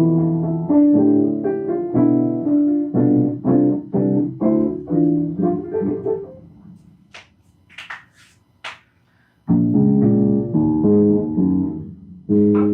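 Improvised piano: a run of struck chords and notes that dies away about six and a half seconds in. A few faint clicks follow in the lull, and the playing starts again about nine and a half seconds in.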